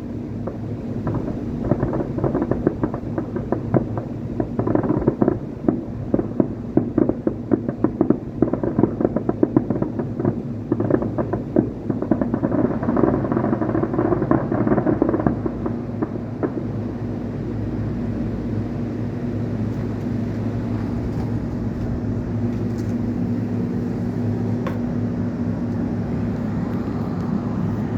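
Fireworks crackling, a dense run of rapid pops and cracks that thins out and stops about halfway through. A steady low hum carries on underneath and is left alone afterwards.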